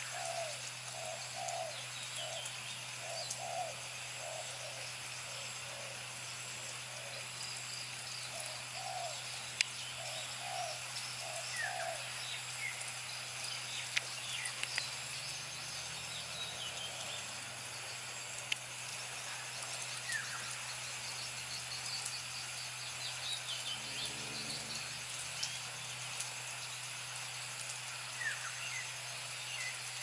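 Birds calling outdoors: a run of short, repeated low notes through the first twelve seconds or so, and scattered short high chirps throughout. A steady low hum and a light hiss lie underneath.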